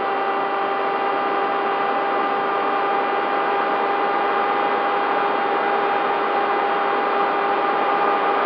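Bixler 3 RC plane's electric motor and pusher propeller whining at a steady throttle, over a rushing hiss of airflow, heard from the camera mounted on the plane.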